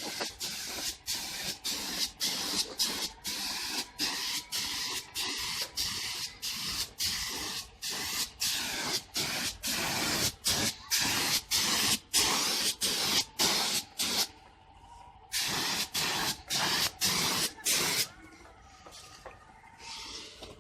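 Air-fed paint spray gun spraying clear coat (two-part varnish thinned with thinner) onto car bodywork. It hisses in quick short bursts, about two a second, with a brief stop about two-thirds of the way through, and goes weaker near the end.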